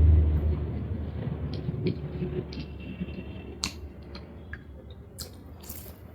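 Close-miked eating sounds: chewing with scattered sharp mouth clicks and small smacks, over a low rumble that fades in the first seconds.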